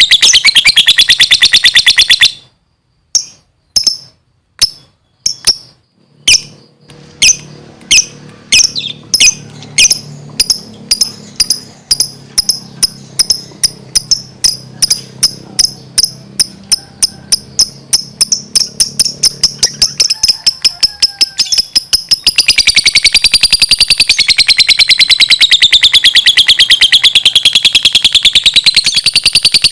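Lovebird in full song: a shrill, fast wavering chatter breaks off after a couple of seconds into a pause with single sharp chips. The chips then come back steadily quicker, from about two to about four a second, and build into a long, unbroken high wavering trill for the last third.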